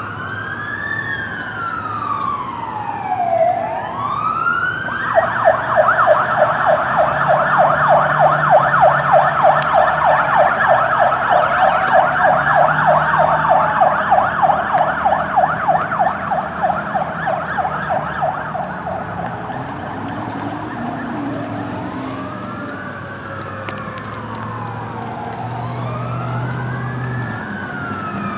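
Fire apparatus sirens responding. A slow rising-and-falling wail switches about five seconds in to a rapid yelp, which goes back to the wail after about thirteen seconds, now with more than one siren wailing at once.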